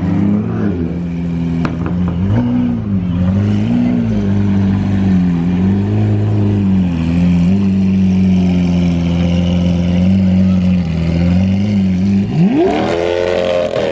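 Car engine idling with a few light blips of the throttle, then revved hard about twelve seconds in and held high before it cuts off.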